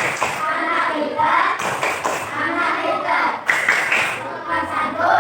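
A class of young schoolchildren singing together in unison.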